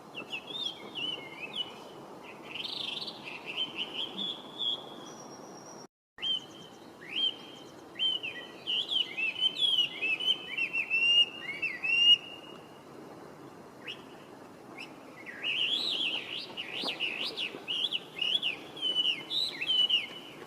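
Chinese hwamei (Garrulax canorus) singing: fast, varied whistled phrases that slide up and down, in three bouts separated by short pauses. The sound cuts out completely for a moment about six seconds in.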